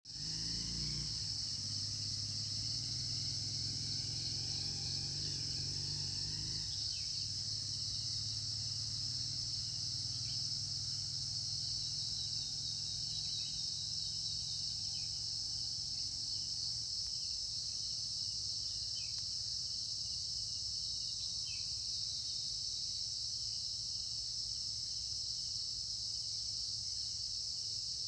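Insect chorus, crickets or similar, with a steady, dense high-pitched trilling throughout. A few short, falling chirps sound now and then, and a low hum lies beneath for the first part before fading.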